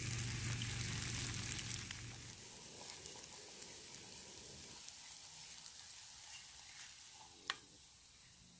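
Tofu slabs sizzling in olive oil in a small frypan on a canister stove, the sizzle slowly dying down. A low hum stops about two seconds in, and the spatula clicks once against the pan near the end.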